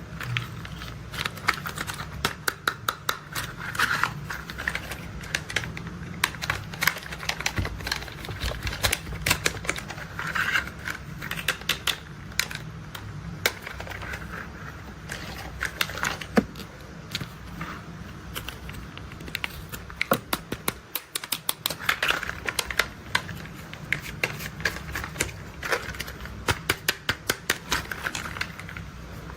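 Hard plastic toy construction vehicles being handled: rapid, irregular clicks and clacks, over a low steady hum that briefly drops out about two-thirds of the way through.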